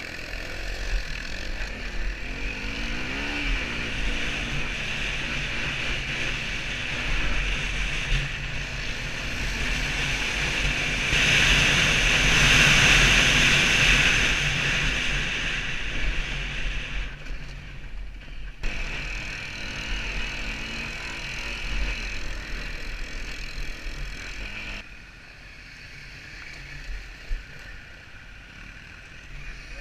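Honda CRF250L dirt bike being ridden: engine running under way with a heavy rush of wind and rumble on the microphone, swelling loudest in the middle of the stretch. The sound drops off abruptly twice in the latter part.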